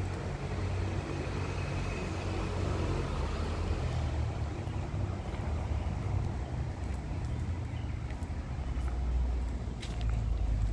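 Diesel locomotive of the Taiwan Sugar Railway running with a steady low rumble, its engine note rising and falling slightly, with a few sharp clicks near the end.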